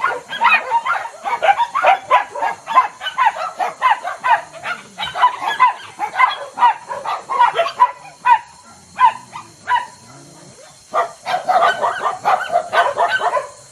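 Several dogs barking in quick, overlapping barks, several a second, with a short lull about ten seconds in before the barking starts up again.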